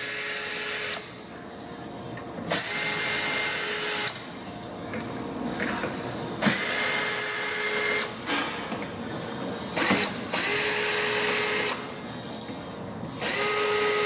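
Power drill with a socket bit driving out a row of screws, in about six short runs with pauses between. Each run starts with a quick rising whine that then holds steady, and one run near the middle is only a brief blip.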